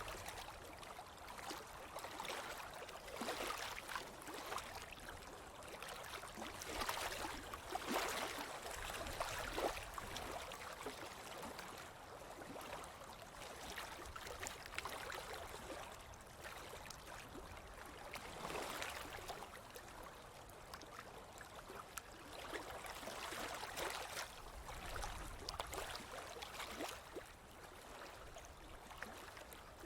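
Small ocean waves breaking and washing up on a beach, the wash swelling and fading every few seconds, with little splashes and crackles in the water.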